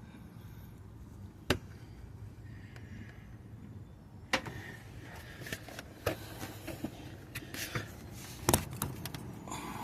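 Scattered sharp clicks and knocks of hand work on exhaust parts, four louder ones a second or two apart, over a low steady hum.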